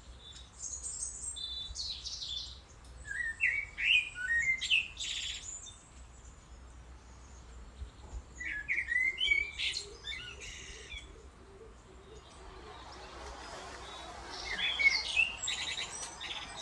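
A songbird singing three separate phrases of quick, varied high notes, a few seconds apart.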